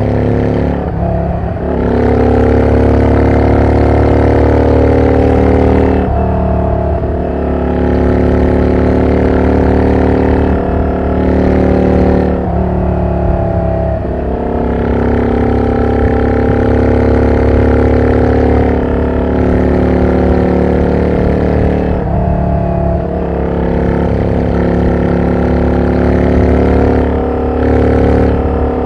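Yamaha Drag Star 400 Classic's air-cooled V-twin running loud through an aftermarket exhaust that is not road-legal, under way at speed. Its pitch climbs and drops back several times, with a brief dip in loudness at each drop.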